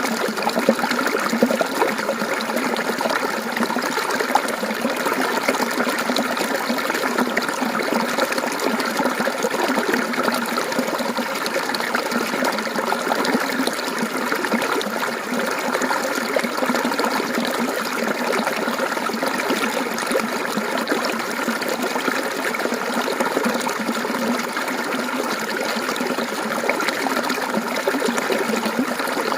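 Mountain stream water trickling and babbling steadily over rocks, an even splashing flow.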